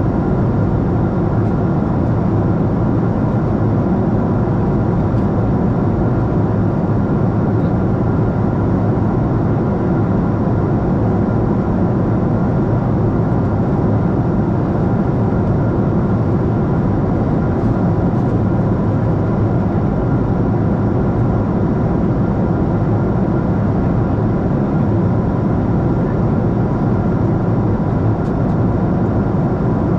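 Steady, loud engine and airflow noise inside the cabin of a Boeing 747-8 in flight, a deep even rumble with a faint steady hum over it.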